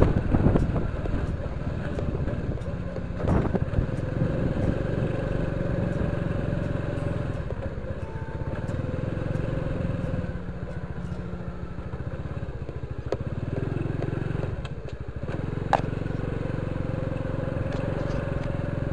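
Honda Biz motorcycle's small single-cylinder four-stroke engine running as it is ridden, its pitch easing off mid-way and rising again near the end, with a few knocks and rattles.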